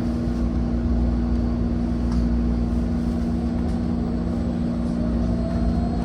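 City bus running with a steady engine hum over a low rumble; a faint whine starts to rise in pitch near the end.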